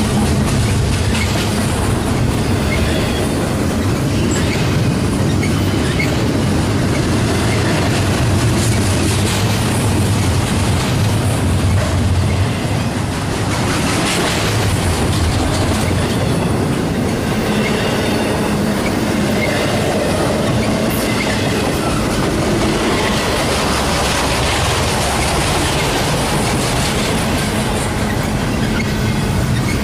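Double-stack intermodal container train rolling past at speed: a steady rumble and clatter of wheels over the rail, with now and then a faint high squeal from the wheels.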